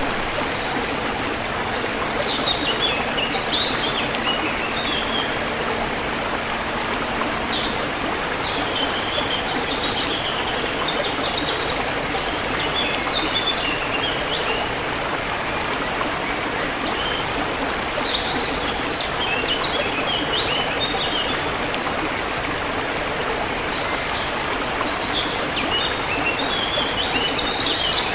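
Forest river flowing steadily, with songbirds singing short twittering phrases over it every few seconds.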